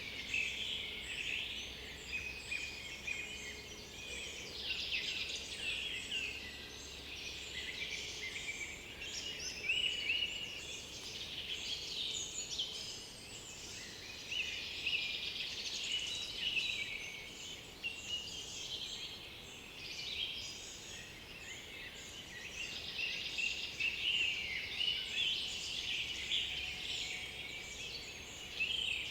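Several songbirds singing over one another: a dense, continuous chorus of overlapping chirps, trills and whistled phrases.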